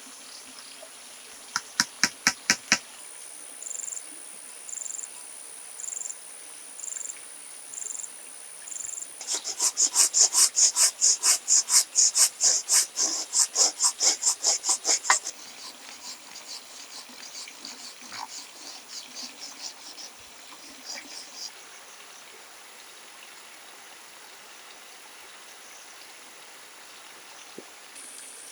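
Rainforest insects calling: a steady high-pitched drone, with a chirping insect repeating a short high note about once a second. Then comes a loud run of rapid, even clicking pulses, about four a second, lasting some six seconds and trailing off fainter.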